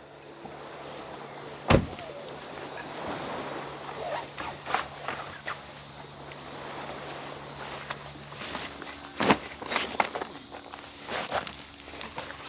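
Steady high-pitched insect buzzing over a soft outdoor hiss, with scattered footsteps and knocks: a sharp knock about two seconds in, another about nine seconds in, and a run of clicks near the end.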